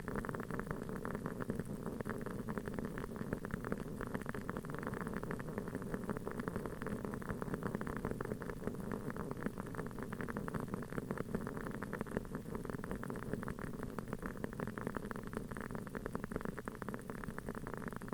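Wooden wick of a large aroma candle burning with a continuous fine crackle, a dense run of small pops like a tiny campfire.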